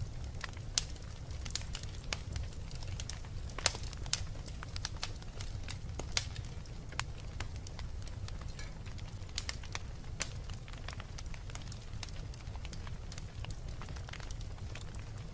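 Wood fire burning in a fireplace: a steady low rumble of the flames with irregular crackles and sharp pops, a few louder snaps scattered through.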